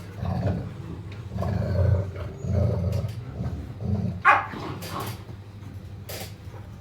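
Dogs growling in low, repeated rumbles, with one short sharp yelp a little after four seconds in.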